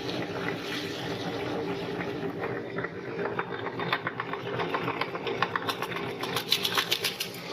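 Electric meat grinder running with a steady motor hum, with quick crackling clicks of something being crushed through it, thickest near the end.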